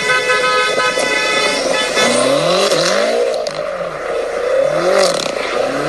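Car engine held steady for about two seconds, then revved up and down several times in quick throttle blips.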